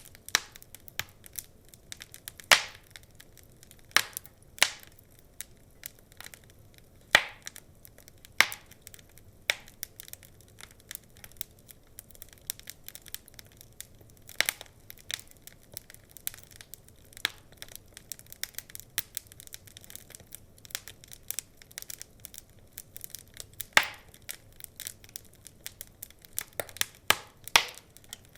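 Wood fire crackling with irregular small ticks and snaps, and a handful of louder pops from the burning logs.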